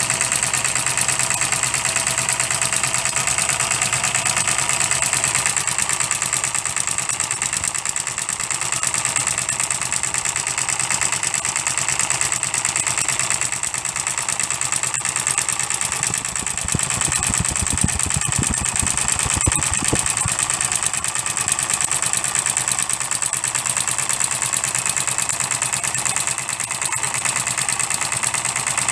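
Custom-built 12cc direct-injection model diesel engine running steadily, a fast, even stream of firing strokes with a strong high-pitched ring over it. A few seconds of low thumps come in a little past the middle.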